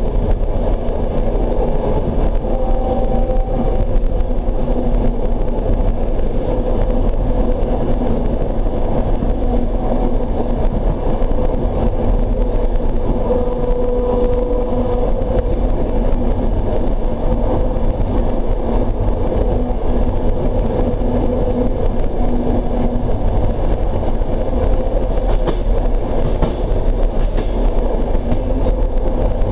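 Suburban train running steadily on a single-track line, heard from inside a carriage: an even rumble and hiss with faint humming tones that fade in and out.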